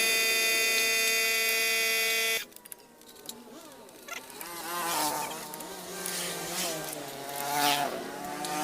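A small motor running with a high, steady buzzing whine that cuts off sharply about two seconds in. Quieter background music with singing follows.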